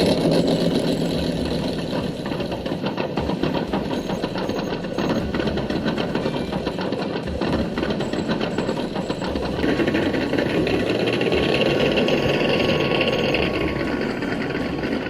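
Traxxas TRX6 6x6 RC crawler's electric motor and geared drivetrain running under load, a steady mechanical whir, with a higher whine joining in and the sound getting louder about ten seconds in.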